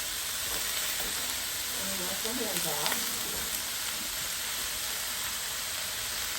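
Onions, potatoes and tomatoes sizzling steadily as they fry in a pan, with a brief murmur of a voice about two to three seconds in.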